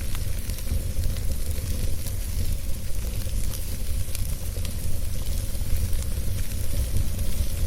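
Fireplace fire burning steadily, with a low rumble under scattered crackles and pops.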